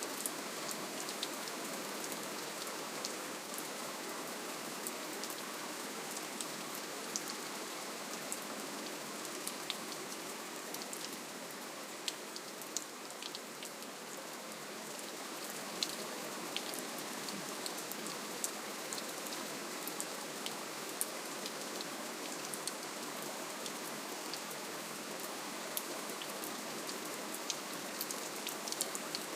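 Steady gentle rainfall: an even hiss of rain with many distinct drop ticks spattering on a surface.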